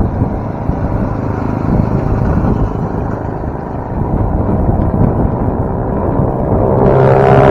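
Rumbling wind noise on the microphone and road noise while riding a bicycle. Music comes in near the end.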